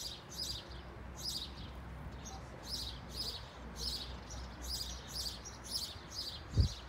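Small songbird chirping repeatedly, short high chirps about two a second, over a faint low rumble.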